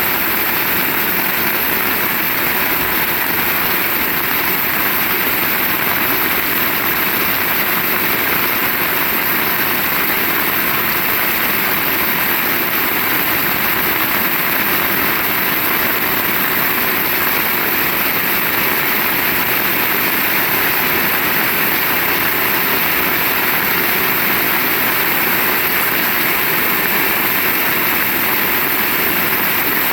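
Heavy rain falling steadily, a dense unbroken hiss.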